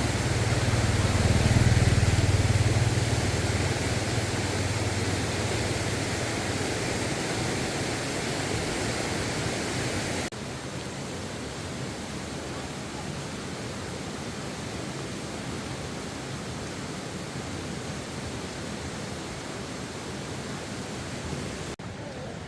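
Steady hiss of rain, with a low rumble under it for the first few seconds. The level drops abruptly about ten seconds in and again just before the end.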